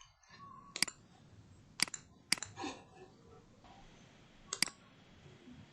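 Computer mouse clicking: a few sharp single clicks spaced about a second apart, with a quick double click near the end.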